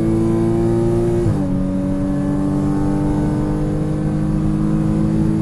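Car engine heard from inside the cabin, accelerating hard on a straight. About a second in the pitch steps down at a gear change, then climbs steadily again as speed builds.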